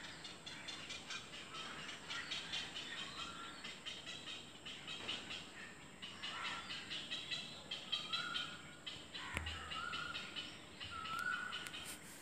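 Birds chirping and calling, with a short flat call note repeating several times in the second half. A single sharp click with a low thud about nine seconds in.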